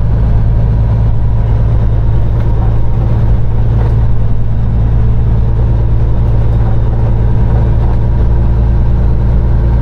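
Peterbilt 389 semi truck's diesel engine running steadily under way, a constant low drone heard from inside the cab.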